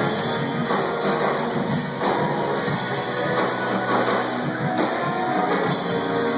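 Live rock band playing, with guitar strumming prominent in the mix.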